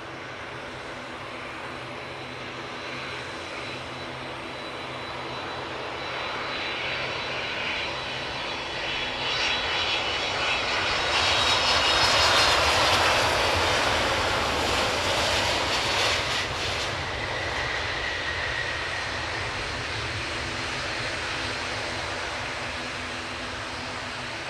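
Boeing 767-300ER's twin GE CF6-80C2 turbofans on landing approach, passing by: a jet rumble with a high whine that builds, is loudest about halfway through as the whine slides down in pitch, then fades away.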